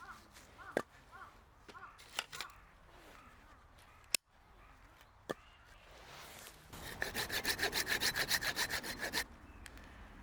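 Hand saw cutting through firewood in quick, even strokes for about two seconds, near the end, after a few scattered knocks and clicks.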